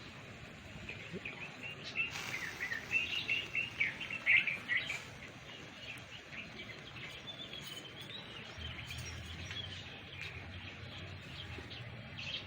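Birds chirping: a busy run of short, high chirps about two to five seconds in, then a single wavering call, over steady outdoor background noise.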